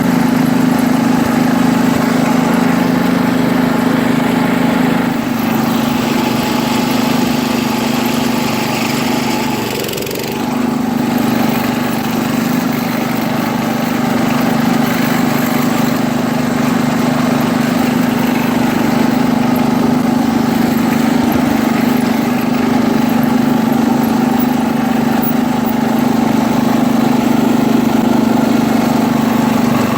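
1973 International Harvester Cub Cadet 86 garden tractor's single-cylinder engine running steadily while driving. About ten seconds in the engine note drops briefly in pitch and loudness, then picks back up.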